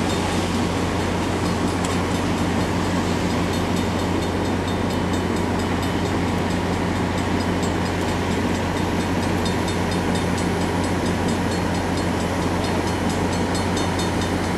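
Diesel locomotive of the Northlander passenger train running with a steady low engine hum and rail noise.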